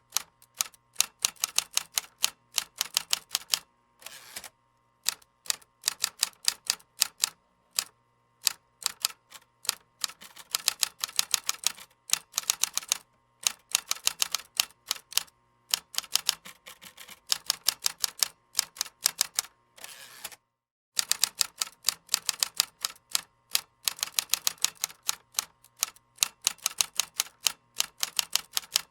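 Typing on a computer keyboard: fast runs of crisp key clicks broken by short pauses, with a longer pause about twenty seconds in.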